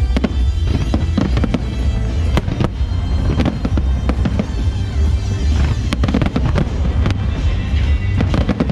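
Fireworks display: a dense, irregular series of bangs and pops over a continuous low booming rumble, with music playing underneath.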